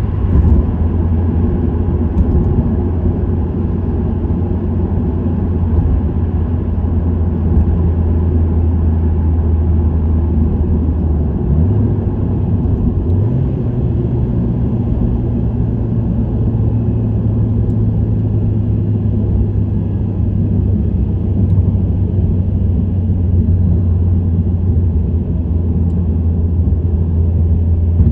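Subaru WRX STI's turbocharged EJ20 flat-four, through an STI Performance muffler, droning steadily at cruise, with road noise. Its pitch dips and then steps up about twelve and thirteen seconds in.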